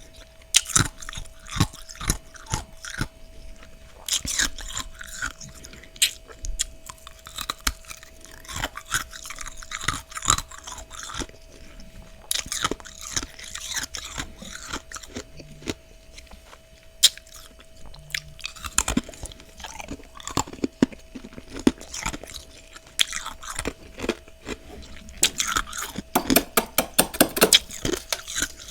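Close-up crunching and chewing of freezer frost in the mouth: clusters of crisp, sharp crunches separated by short pauses, densest near the end.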